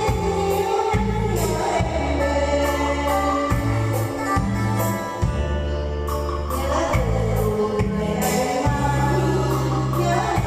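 A singing voice over an accompanying track with a bass line and a steady beat.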